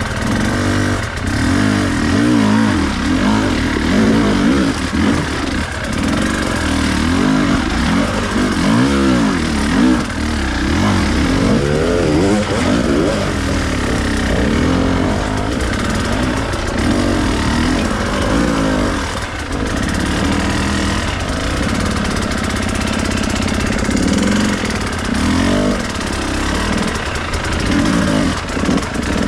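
Off-road enduro motorcycle engine being ridden, its revs rising and falling over and over as the rider works the throttle.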